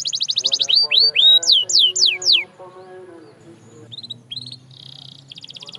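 Domestic canary singing: a fast trill of rapidly repeated notes, then a run of loud whistles that each sweep downward in pitch, breaking off about two and a half seconds in. Softer short notes and a brief buzzy note follow, and another fast trill starts near the end.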